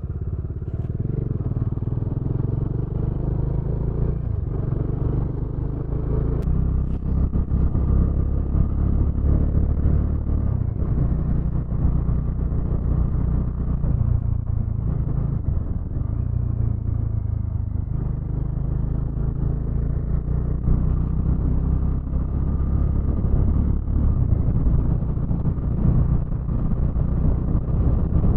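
Motorcycle engine running steadily while riding, with a continuous low rumble.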